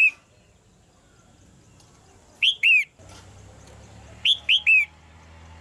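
Red-whiskered bulbul calling in short, loud phrases of two or three quick down-slurred whistled notes. One phrase ends right at the start, another comes about two and a half seconds in, and a third about four seconds in.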